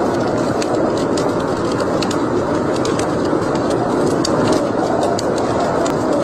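Wood fire burning in a fireplace: a steady rushing sound with frequent, irregular sharp crackles and pops.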